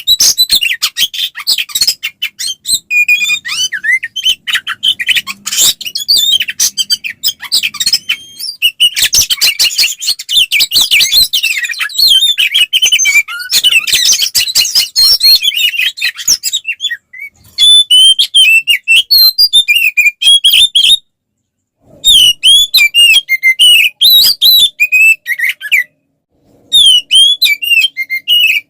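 Oriental magpie-robin (kacer) singing loudly in a fast, dense stream of varied whistles and chattering notes, its aggressive 'fighting' song. After the midpoint the song breaks into separate bursts of sweeping whistles with short pauses between them.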